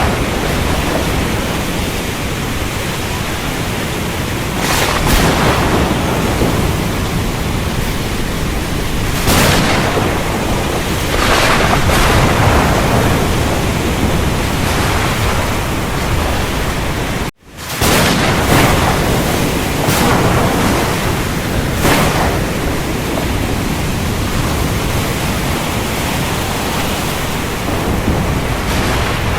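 Steady heavy rain hissing over a low rumble of thunder, with several swelling thunder peaks. The whole sound cuts out for an instant about two-thirds of the way through and comes straight back, like a splice in a looped recording.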